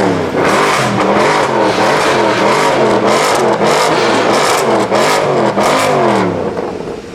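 Car engine revved hard over and over, its pitch rising and falling repeatedly in quick blips, then dying away near the end.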